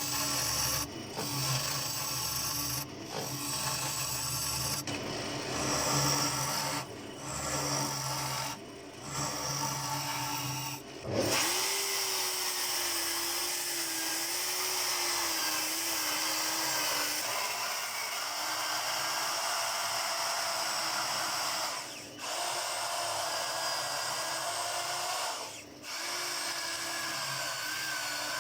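Abrasive rubbing on turning wood in repeated strokes with brief lifts, typical of sanding a bowl on the lathe. About eleven seconds in a small power-tool motor spins up and runs steadily with a high hiss, like a drill-driven sanding pad working the wood.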